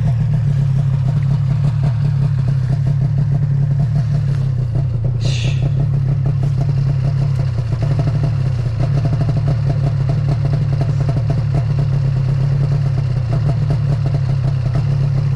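Vehicle engine running steadily under load at an even speed, with a brief high-pitched squeal about five seconds in.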